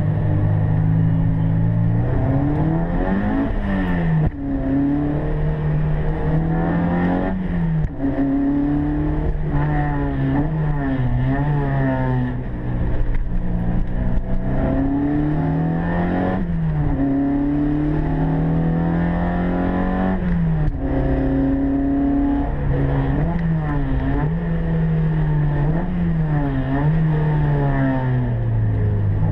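Opel Kadett GT/E's four-cylinder engine at full throttle, heard from inside the cabin: the revs climb and drop sharply at each gear change, about six times, with shorter lifts and quick rises through corners near the end.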